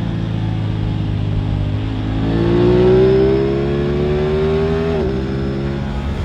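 Aprilia RS 660's parallel-twin engine under way, its pitch climbing steadily as it accelerates from about two seconds in, then dropping suddenly at about five seconds at a gear change before pulling again.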